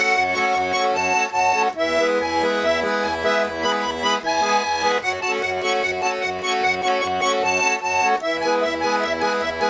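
Accordion playing an instrumental intro: held chords that change every few seconds over a steady pulsing bass.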